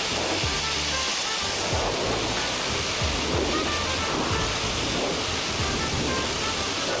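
Steady hiss of a pressure washer spraying water onto the car, under background music with short repeated melody notes and a bass line.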